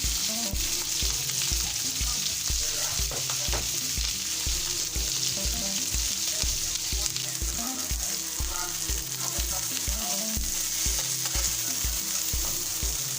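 Boneless chicken searing in oil in a smoking-hot pan, a steady high sizzle. A low beat of about two thumps a second runs underneath.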